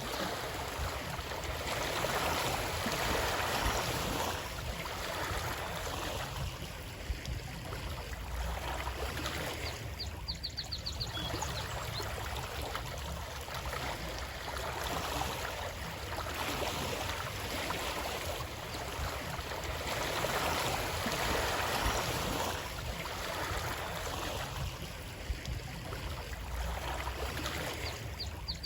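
Flowing water, a continuous rush that swells and eases every few seconds. Twice, a brief run of faint high ticks sounds over it.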